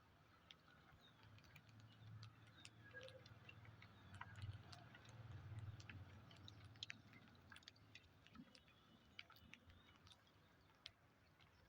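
Faint, irregular small clicks and crunches, typical of parrots nibbling and cracking their food, over a low hum that is strongest in the middle.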